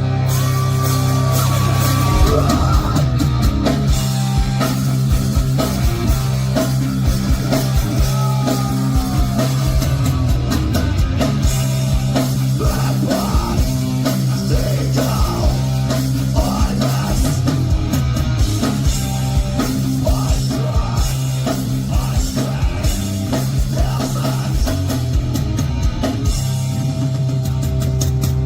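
Punk rock band playing live at full volume: distorted electric guitars, bass and fast drums, with singing over the top.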